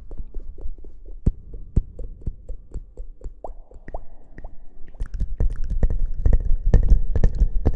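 Irregular crackling and soft popping right at the microphone, an ASMR trigger sound; it grows denser and louder about five seconds in.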